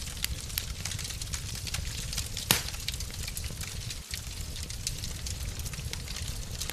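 Wood fire in a fireplace crackling over a steady low rumble, with scattered small snaps and one loud pop about two and a half seconds in.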